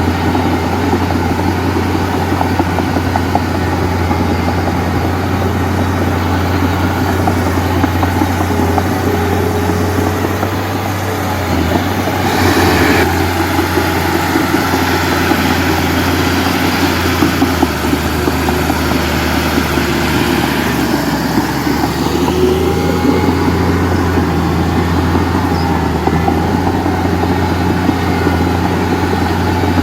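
Heavy diesel engine of earth-moving or dump-truck machinery running steadily. A short hiss comes about 12 seconds in, and the engine note changes around 18 seconds.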